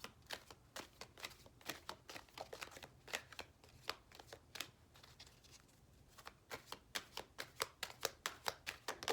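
A deck of oracle cards being shuffled by hand: a run of quick, irregular card snaps and riffles, coming thicker over the last few seconds.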